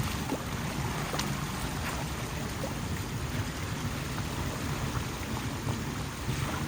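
Steady rush of floodwater, with wind buffeting the microphone and a few faint clicks.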